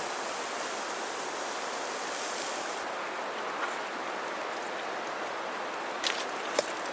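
Steady rushing of a shallow mountain stream flowing over rocks. A high hiss on top drops away about three seconds in, and a few sharp clicks come near the end.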